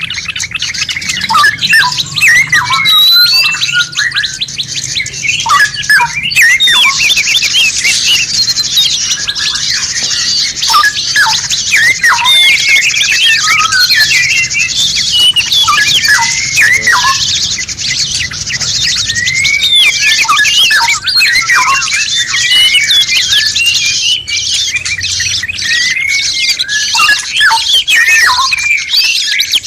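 A dense mix of several songbirds singing and calling at once: overlapping chirps, whistles and quick pitch glides, with a rapid, high buzzy trill through the middle. It is a masteran recording, a compiled birdsong track used to teach songs to captive songbirds.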